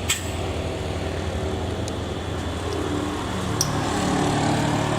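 Vehicle engine running steadily, its note rising a little about three seconds in, with a sharp click right at the start.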